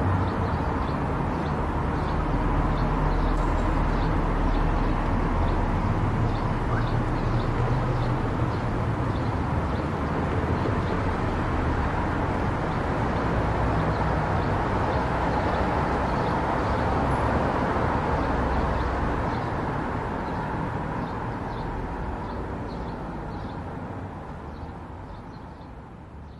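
A car driving on a highway: a steady drone of tyres and engine that fades out over the last several seconds.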